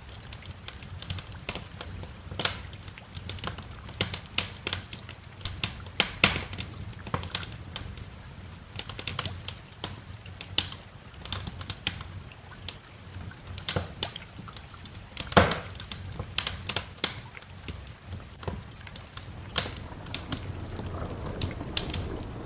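Wood fire in a fireplace crackling, with irregular sharp snaps and pops and one louder pop in the middle.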